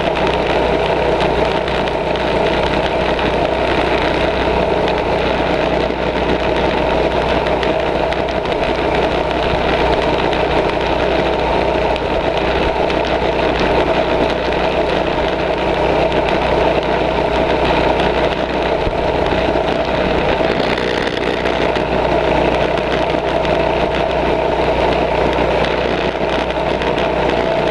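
Small mini bike engine running steadily at a constant speed, with no big changes in pitch.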